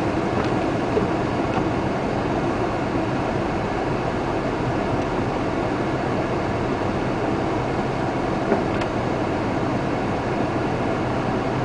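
Steady rushing noise of a car driving through a rainstorm, with a couple of faint clicks.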